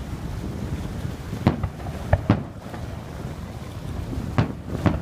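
Fireworks display: about five sharp bangs of aerial shells bursting, two close together a little after two seconds and two more near the end, over a steady rumble and wind noise on the microphone.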